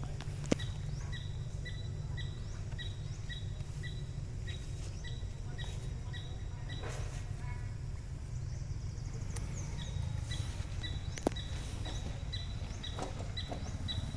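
A bird repeating a short, high, falling chirp about twice a second, pausing for a few seconds in the middle, over a steady low outdoor rumble, with two sharp clicks.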